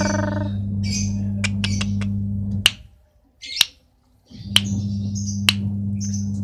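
Lovebird giving short high chirps in scattered bursts, mixed with several sharp clicks, over a steady low electrical hum that cuts out for about a second and a half in the middle.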